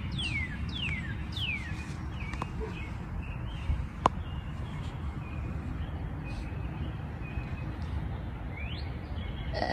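A bird singing: four loud whistles that each slide downward in pitch, in quick succession, then softer short chirps and one rising whistle near the end. A sharp click sounds about four seconds in, over a steady low background rumble.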